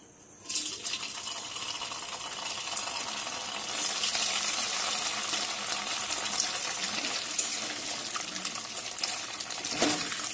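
Paneer cubes going into very hot oil in a wok. The oil sizzles suddenly about half a second in and keeps frying with a steady crackling hiss.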